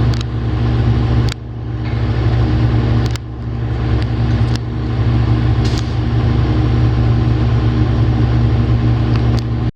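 Komatsu PC450LC-8 excavator's diesel engine running steadily, with a few short sharp clicks over it.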